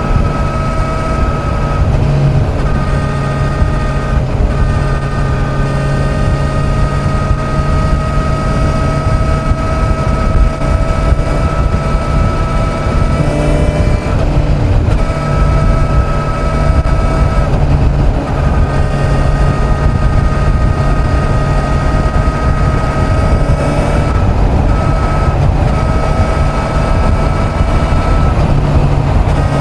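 Kawasaki Z900's inline-four engine running at a steady highway cruise, its pitch holding nearly level with brief dips from small throttle changes, under a heavy low rumble of wind noise on the microphone.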